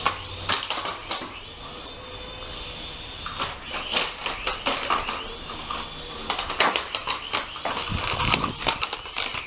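Small radio-controlled helicopter's electric motor and rotor whining, the pitch rising and falling as the throttle changes, with repeated knocks and clatters.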